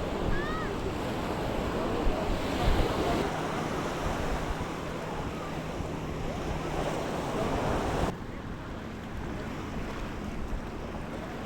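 Sea waves washing onto a beach, with wind buffeting the microphone. The sound drops abruptly to a quieter wash about eight seconds in.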